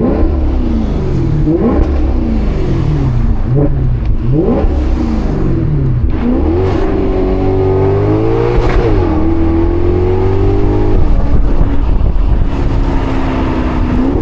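Maserati GranCabrio's Ferrari-derived 4.7-litre V8 being driven hard. In the first few seconds the revs climb and drop several times in quick succession. After that the engine holds a steadier, higher pitch for several seconds, settles lower, then climbs again right at the end.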